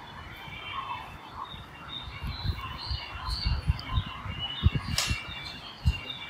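Small birds chirping repeatedly with short high-pitched calls, over irregular low knocks and one sharp click about five seconds in.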